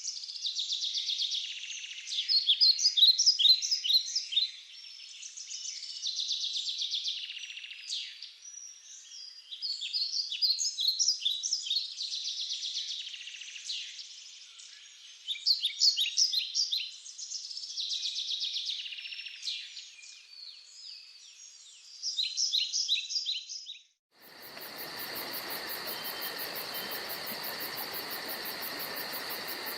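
Songbirds calling in repeated bursts of rapid high chirps, about two seconds each with short gaps between. About 24 seconds in, this cuts off suddenly to a steady chorus of crickets and other insects over a soft hiss.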